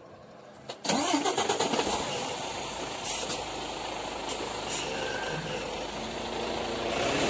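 A car engine cranks and starts about a second in, with a quick run of clicks, then keeps running and gets louder near the end as traffic moves off once the crossing barriers have lifted.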